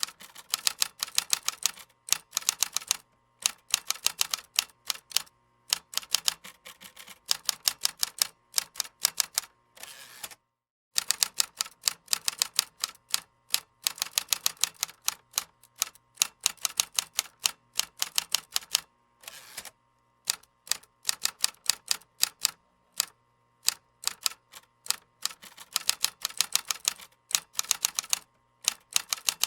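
Computer keyboard typing: quick runs of key clicks in bursts of a few seconds, broken by short pauses. The sound cuts out completely for about half a second around ten seconds in.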